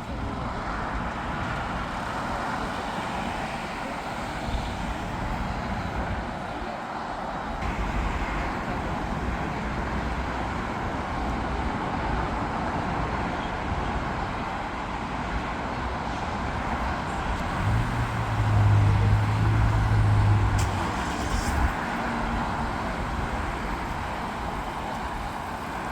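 Steady engine roar of airport traffic, with a deep low drone swelling for about three seconds near the two-thirds mark.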